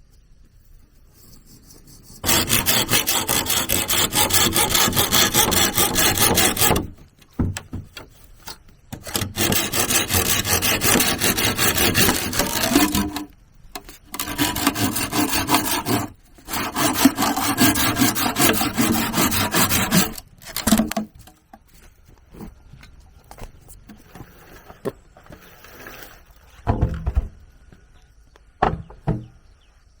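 A hand tool rasping through wood, likely bamboo, in four long spells of rough strokes, then a few light knocks near the end.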